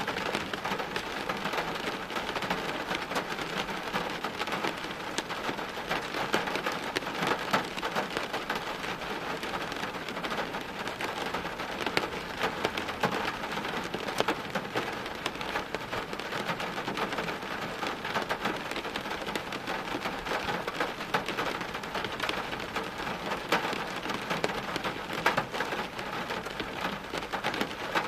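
Steady rain falling on hard surfaces, a dense even hiss thick with the ticks of single drops striking close by.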